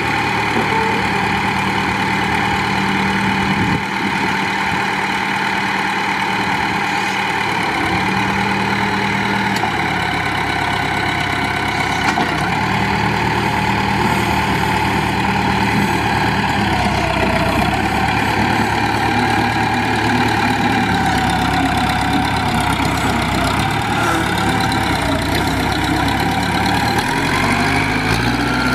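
Case DH4 articulated trencher backhoe's engine running steadily at idle, its pitch shifting slightly now and then and rising a little near the end.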